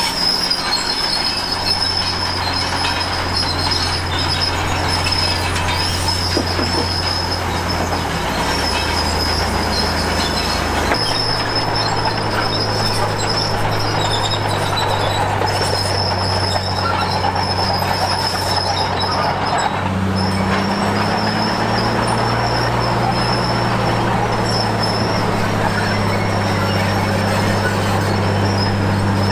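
Komatsu D53P crawler bulldozer running under load, its steel tracks squealing steadily over the engine. The engine note steps up about a third of the way in and again about two-thirds of the way in.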